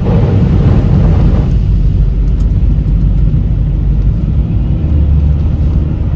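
In-cabin noise of a Vauxhall Meriva B being driven on the road: a steady low rumble from the engine and tyres.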